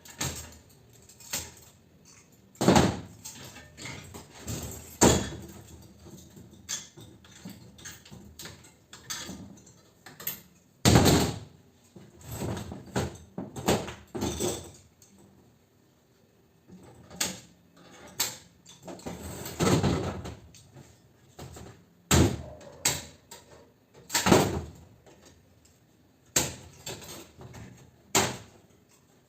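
Irregular knocks, clanks and scrapes of metal parts being handled and pulled apart while an air conditioner unit is dismantled for scrap, with short pauses between them.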